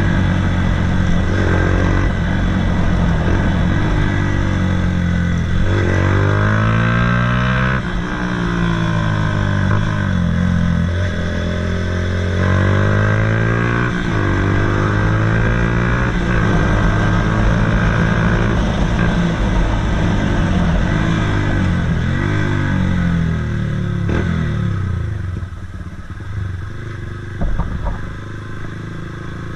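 Honda CBF 125's single-cylinder four-stroke engine through a DanMoto GP aftermarket exhaust, its note rising and falling over and over. Near the end it drops lower and quieter, with a single short knock.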